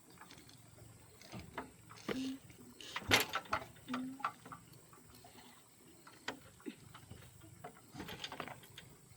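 Irregular clinks and knocks of metal tools and engine parts being handled during tractor engine disassembly, the loudest knock a little after three seconds in.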